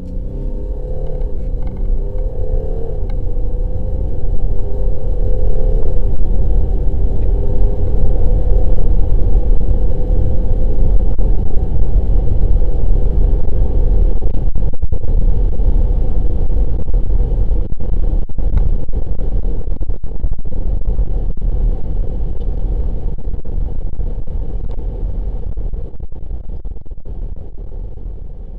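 Audi Q7 3.0 TDI V6 diesel accelerating at full throttle, a deep continuous rumble that shifts in steps as the gearbox changes up in the first few seconds. It builds as speed rises and eases off near the end as the throttle is released.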